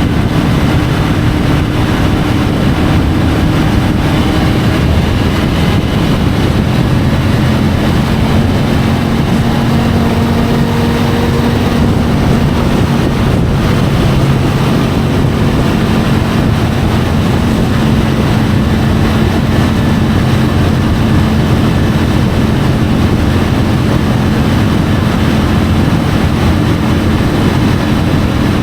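Triumph Tiger 850 Sport's three-cylinder engine running at a steady road speed, heard from a camera mounted on the motorcycle, with loud wind and road rush over it. The engine note steps a little lower about five seconds in.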